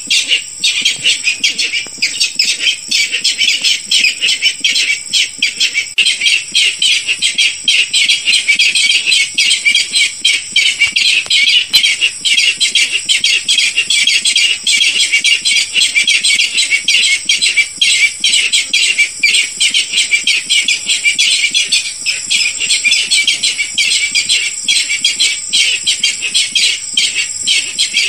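Barred rail calling in a lure recording: a continuous run of rapid, harsh notes with no break, over a steady high-pitched tone.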